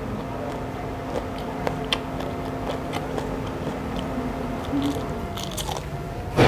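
Close-miked eating: chewing, then crisp bites and crunches into a raw green bird's eye chili (cabai rawit), the crunches densest near the end.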